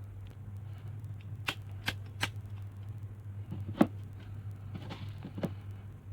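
Small plastic gas lighter being handled, giving several sharp separate clicks over a steady low hum, with a brief soft hiss near the end.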